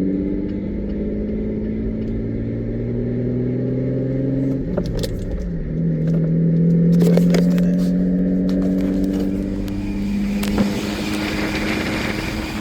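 Nissan 350Z's 3.5-litre V6 pulling away and accelerating, its note climbing slowly, with a gear change about five seconds in before it climbs again. A rougher, wider noise rises over the engine about ten seconds in.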